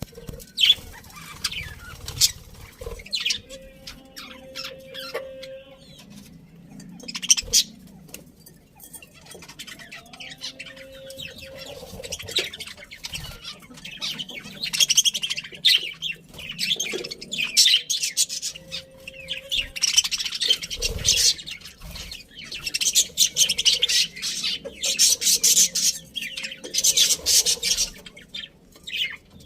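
A colony of budgerigars chirping and chattering, the chirps coming thicker and louder in the second half, with a few sharp clicks among them.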